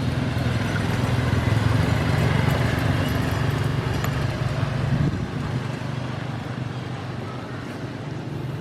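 A steady low engine hum, louder for about the first five seconds, then easing off.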